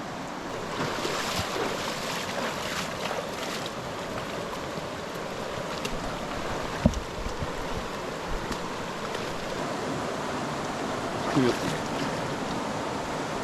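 River water rushing steadily, with a spell of splashing from about one to three and a half seconds in and a single sharp knock around seven seconds in.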